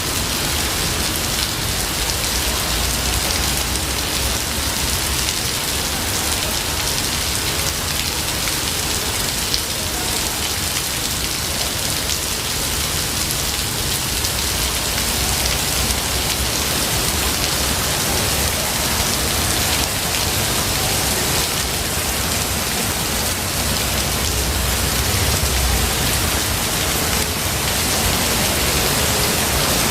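Steady rain falling in a forest: an even, unbroken hiss of drops.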